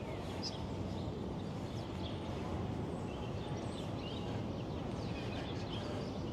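Steady city background noise with faint, short bird chirps scattered through it.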